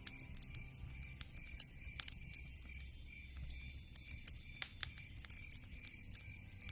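Campfire crackling: irregular sharp pops and snaps from burning wood over a steady low rumble of flame.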